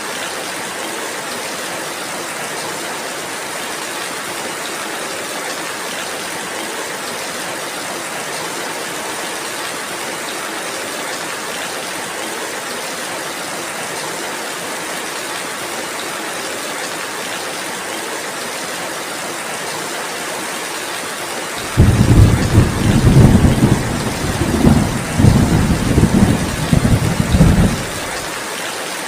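Steady rainfall hissing evenly. About three-quarters of the way in, a loud rolling rumble of thunder breaks in, swells in several pulses for about six seconds, then cuts off suddenly while the rain keeps on.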